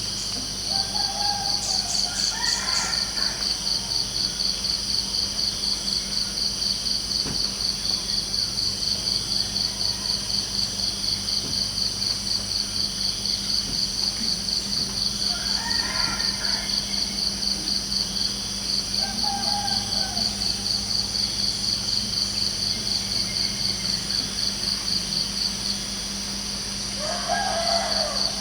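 Crickets chirping in a steady, fast even pulse. Short bird calls break in about four times, near the start, around the middle and near the end.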